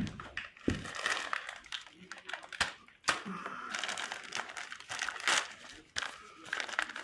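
Plastic packaging crinkling and tearing in irregular bursts as a new oil filter is unwrapped.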